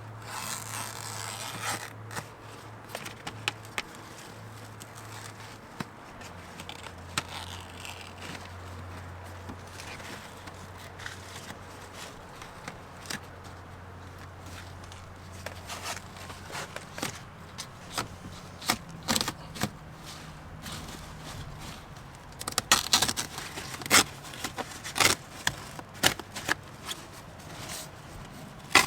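Scattered clicks, scrapes and rattles of hand tools and trim being worked in a BMW 650i's interior while its airbags are taken out, over a steady low hum. The clicking grows busier and louder in the last third.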